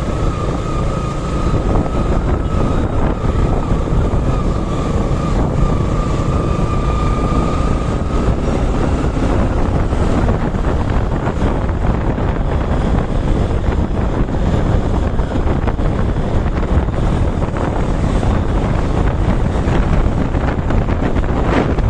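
Wind buffeting the microphone while riding a Suzuki Gixer SF motorcycle, with engine and road noise beneath. A steady whine sounds through about the first eight seconds, then fades.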